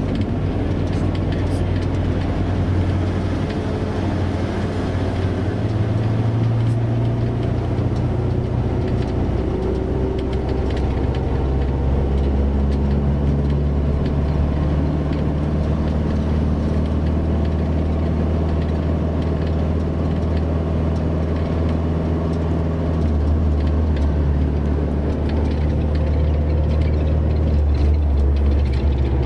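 Heavy road vehicle engine, a bus or truck, running steadily at speed with road noise, its pitch stepping to new levels a few times as the engine speed changes.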